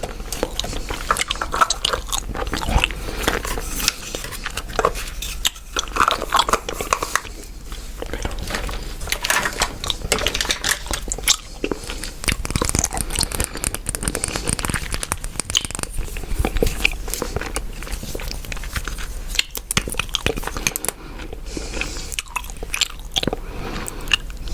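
Chewing gum close to the microphone, an irregular run of many quick mouth clicks and pops.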